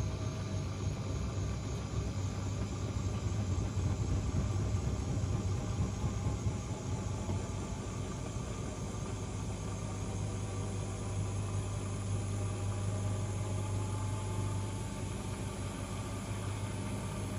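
Front-loading washing machines running, a steady motor hum and drum rumble that is louder for the first six or seven seconds, then settles. A faint whine slowly rises in pitch in the second half.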